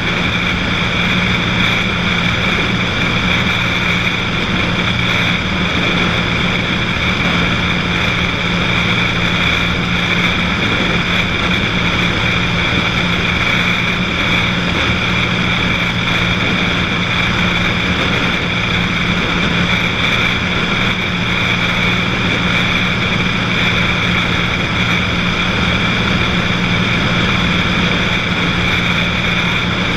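Cessna 182's single piston engine and propeller running steadily at cruise power, a constant drone with no change in pitch.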